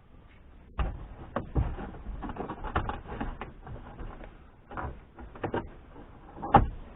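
Knocks, clicks and rustling from a car's plastic interior trim and headliner being handled and worked loose by hand. They come in an irregular run with a cluster in the middle, and the loudest knock is near the end.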